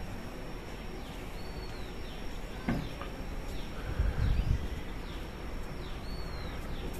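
A bird repeating a short, arching high call every two to three seconds over faint outdoor background noise, with a thin steady high tone underneath. A brief low rumble comes about four seconds in.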